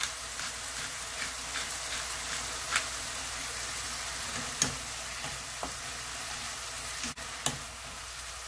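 Julienned Korean zucchini sizzling steadily in oil in a nonstick pan as it is stir-fried with a spatula, with a few sharp clicks of the spatula against the pan.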